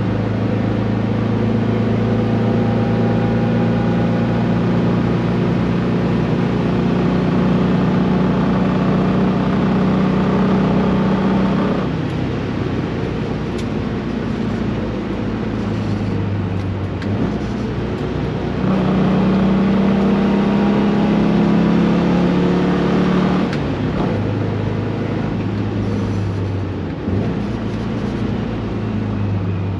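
Standard 1600cc Volkswagen Beetle's air-cooled flat-four engine running hard at fairly steady revs. It drops back about twelve seconds in, pulls hard again from about nineteen to twenty-three seconds in, then eases off once more.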